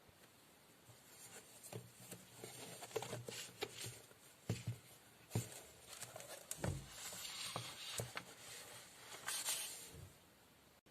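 Light rustling with scattered small taps and clicks, as of objects being handled close by, stopping shortly before the end.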